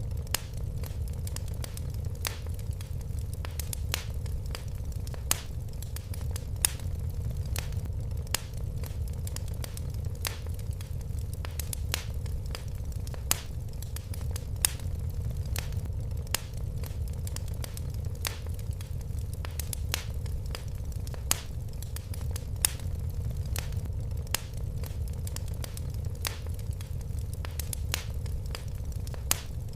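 Fire crackling in a fireplace: a steady low rumble of flames with many small crackles and sharper pops every second or two.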